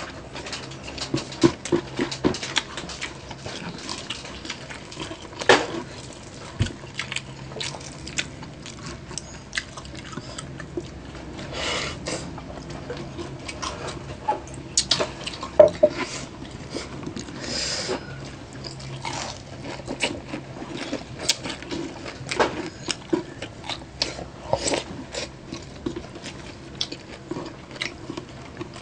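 Close-miked mukbang eating sounds: chewing, wet lip smacks and crunches of crispy deep-fried pork knuckle skin, coming as an irregular string of sharp clicks and smacks.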